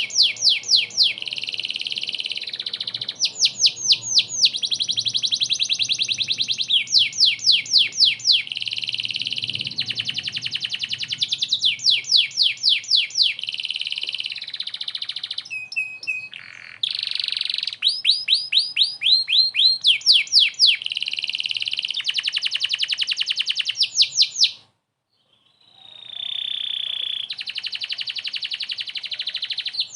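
Domestic canary in full song: a long, continuous run of rapid high trills and repeated sweeping notes. The song cuts out briefly near the end, then starts again.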